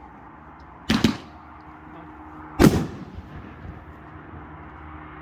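Two loud firework booms, about two seconds apart, each with a short echoing tail.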